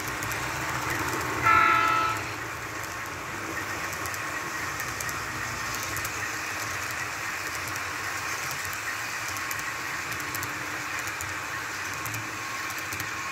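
HO scale model train with its horn sounding one short blast about a second and a half in. The steady running sound of the train continues after it, with light clicking.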